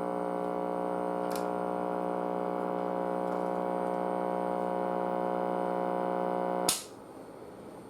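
A vintage Zenith tube TV set, powered up and heavily loaded by a fault, giving off a steady mains-frequency buzz. A sharp click about 6.7 seconds in cuts the buzz off.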